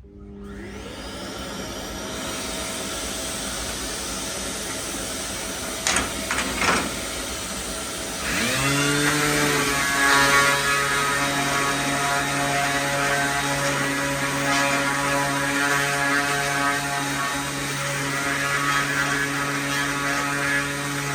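Electric power tools running for sanding paint and grime off a car body part. One motor spins up at the start and runs steadily, with a couple of sharp knocks about six seconds in. A second motor spins up about eight seconds in, and both keep running at a steady pitch.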